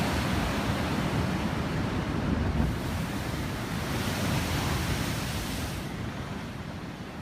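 Ocean surf: a wave breaking and the white water rushing in, a dense hiss and rumble that slowly dies away, its hiss thinning out in the last second or so.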